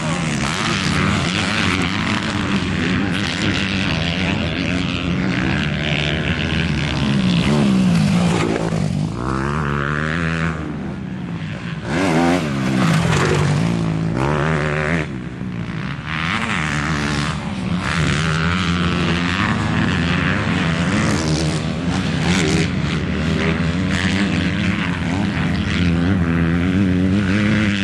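Several motocross dirt bike engines running and revving, their pitch rising and falling again and again.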